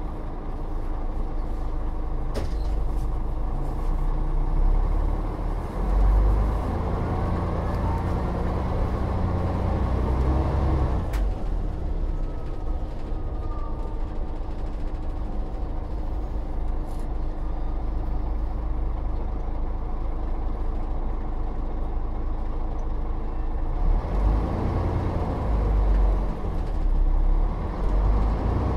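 Volvo Olympian double-decker bus under way, its engine running steadily with a constant whine. Twice the engine note rises as the bus pulls away and accelerates, with a sharp click midway.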